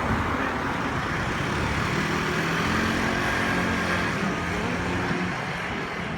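Road traffic running steadily, with one vehicle's engine hum coming up about two seconds in and dropping away after five.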